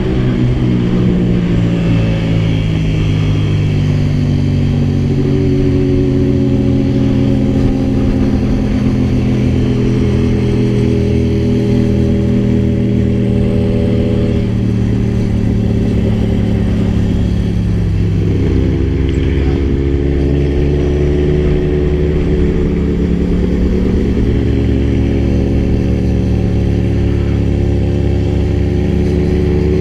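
Kawasaki Z1000 inline-four engine running under way, its note easing down slowly through the middle, settling onto a lower steady note partway through, then climbing again as the bike accelerates near the end.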